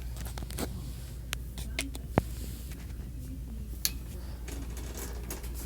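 Handling noise from a phone being turned around: scattered clicks and taps, one sharp click about two seconds in, over a steady low hum.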